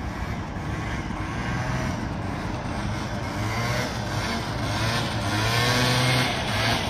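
Small scooter engine revving up and down during wheelie practice, the revs and loudness climbing in the second half.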